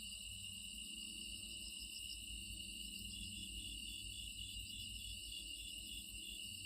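Steady, high-pitched chirring of insects, with a faster pulsing trill joining about three seconds in, over a low rumble.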